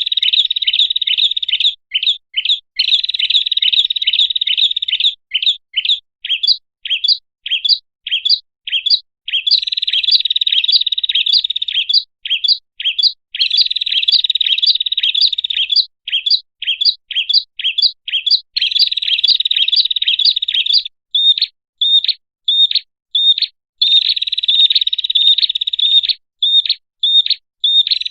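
Prinia (prenjak) call played as a bird-lure recording: loud, rapid sharp chipping notes. Long fast runs alternate with slower, separate chips, breaking off and resuming every few seconds.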